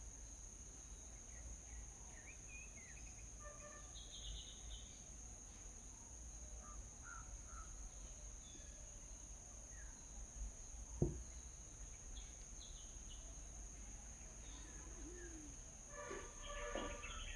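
Small birds chirping intermittently over a steady high-pitched hum and a low rumble, with a denser flurry of chirps near the end. A single sharp click about eleven seconds in is the loudest sound.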